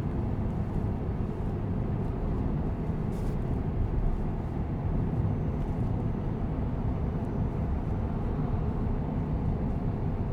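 Steady low road and tyre rumble from a Tesla Cybertruck driving along, heard from inside the cabin.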